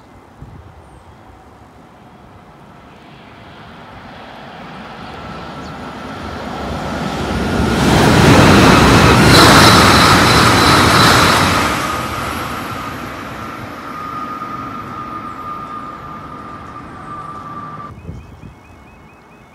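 A train passing: it builds up, is loudest for a few seconds in the middle, then fades away. A steady whine rides on top and ends slightly lower in pitch as the train moves off. The sound cuts off suddenly near the end.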